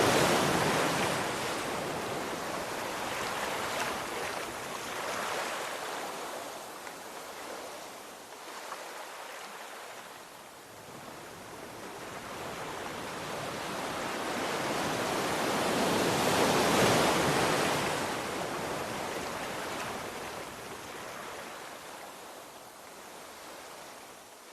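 Sea waves breaking and washing up the shore, the surf swelling loudest at the start and again about two-thirds of the way through, then falling back between breakers.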